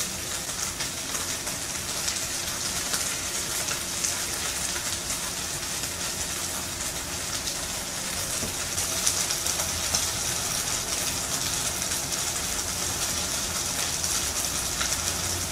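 Mini chicken skewers sizzling in oil in a frying pan: a steady hiss with a fine, continuous crackle.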